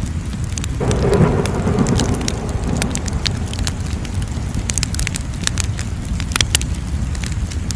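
Wood fire crackling, with frequent sharp pops over a steady low rumble. A rushing swell comes in about a second in and eases off over the next few seconds.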